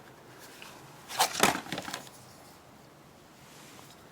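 A short cluster of sharp clicks and rustling, like something being handled, about a second in; otherwise faint background.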